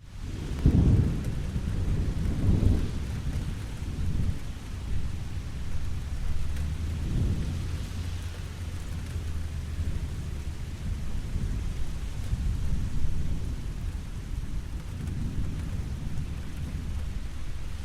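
Steady rain falling, with low rolls of thunder rumbling through it, the strongest about a second in and again shortly after.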